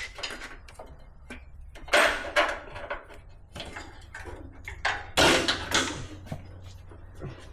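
Irregular clunks, knocks and scrapes of metal as a heavy truck part is shifted by hand, loudest about two seconds in and again around five seconds in.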